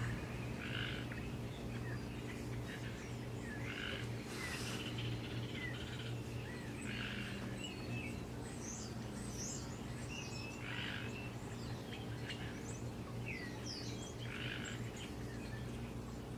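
Birds chirping, with short high calls every second or so all through, over a steady low hum.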